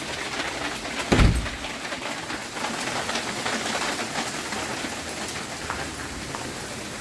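Heavy hail mixed with rain pelting hard surfaces: a dense, steady clatter of pea-sized hailstones, with one dull thump about a second in.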